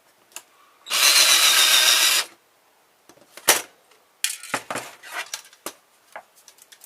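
Electric screwdriver running for about a second and a half, backing a screw out of a car stereo's metal casing. Scattered clicks and light rattles of small metal parts being handled follow.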